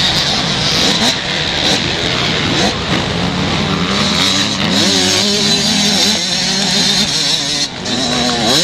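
Several 125cc motocross motorcycles racing, their engines revving up and down through the gears with overlapping rising and falling pitches.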